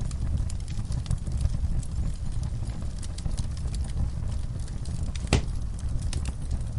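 Wood fire crackling in an outdoor fireplace: scattered small crackles over a steady low rumble, with one louder pop a little over five seconds in.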